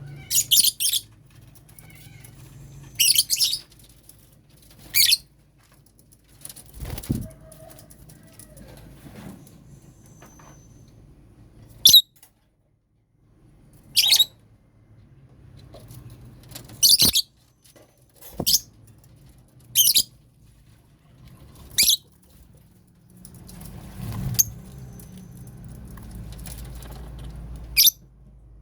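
Lovebirds giving short, shrill chirps, one every two or three seconds, over a faint low rumble.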